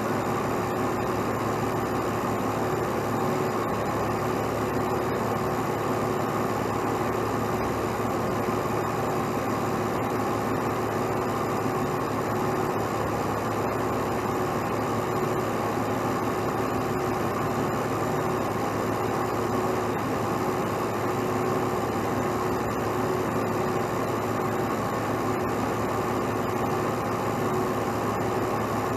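Heavy truck engine running steadily, an even drone with a constant hum and no change in speed.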